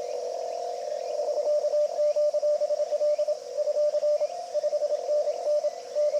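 Morse code (CW) tone from an amateur HF transceiver: a single steady note keyed in dots and dashes. It starts about a second in, over a band of receiver hiss narrowed by the CW filter.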